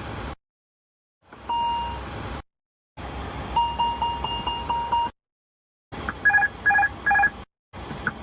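ATR 72-500 cockpit aural warning tones, played as separate clips with silent gaps between them: one steady beep, then a quick run of about six chimes, then three pulsed two-note beeps.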